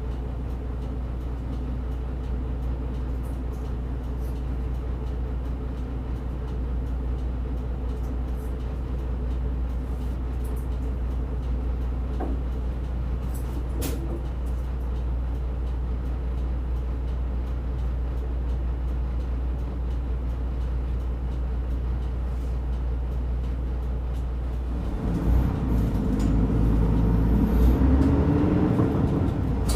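Diesel route bus engine running steadily, heard from inside the passenger cabin. About 25 seconds in it grows louder and rises in pitch as the bus accelerates.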